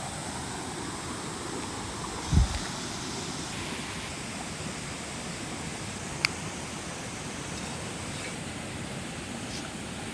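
Steady rushing noise, with a low thump about two seconds in and a single sharp click about six seconds in.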